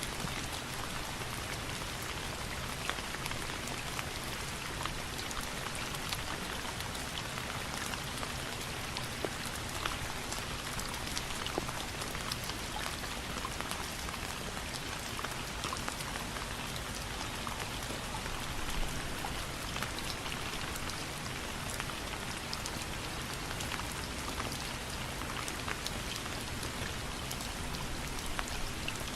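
Steady rain falling, with many individual drops ticking sharply against a continuous hiss.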